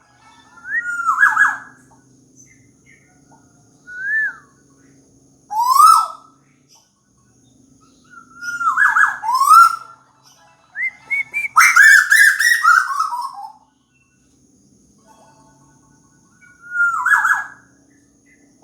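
A tuwu bird calling actively: loud whistled notes that rise in pitch, given every few seconds, with a longer run of falling notes about eleven seconds in.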